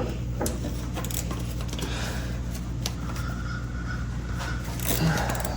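Light metallic clicks and clinks of hand tools and small engine parts being handled during top-end engine disassembly, scattered and irregular, over a steady low hum.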